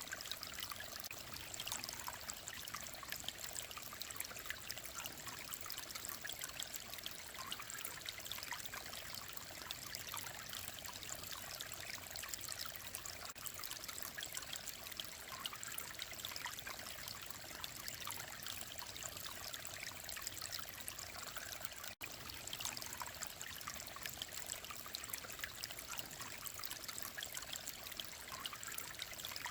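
Mountain valley stream flowing and trickling steadily, with a split-second cutout about three-quarters of the way through.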